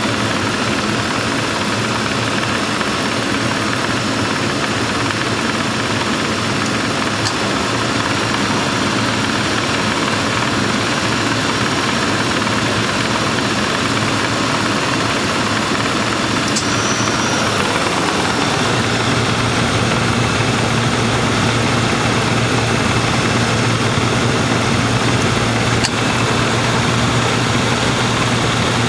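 A 1995 Lincoln Town Car's engine idles steadily with the air conditioning and fans running while the system is charged with R-134a. About two-thirds of the way through, a deeper hum joins and the sound gets a little louder.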